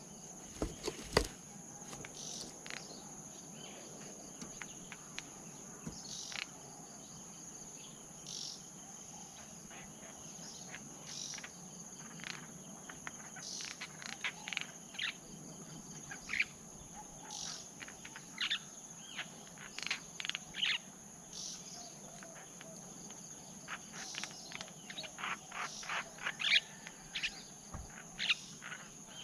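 Forest insects, crickets among them, keep up a steady high-pitched drone, with many short, sharp chirps scattered irregularly over it and bunching up in places.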